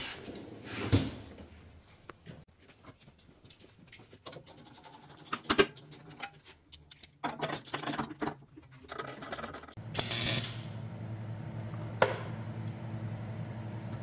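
Clicks, scrapes and light rattles of parts being handled, then a short hiss about ten seconds in, followed by a steady low hum.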